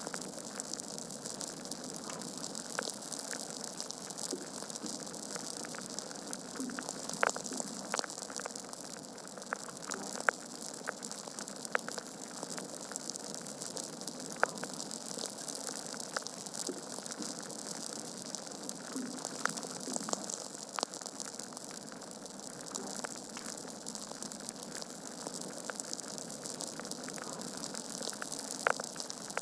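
Wood fire burning in a fireplace: a steady hiss with frequent irregular crackles and sharp pops from the logs.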